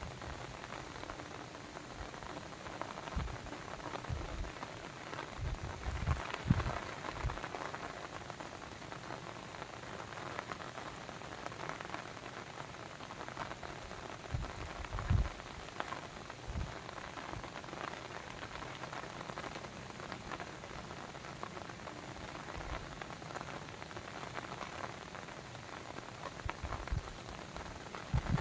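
Steady patter and splash of water, with scattered soft low thuds.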